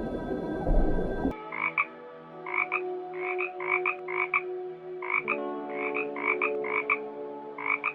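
A loud low rumbling noise cuts off abruptly about a second in. After it, an animal's short high calls repeat, mostly in quick pairs, over a steady low drone.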